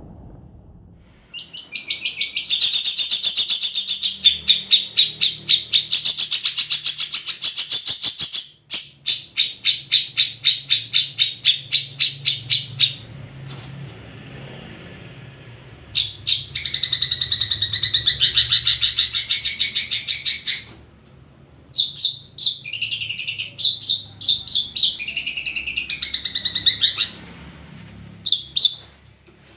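Several long-tailed shrikes (cendet) singing together in fast runs of sharp, rapidly repeated notes, in bursts a few seconds long with short breaks between them.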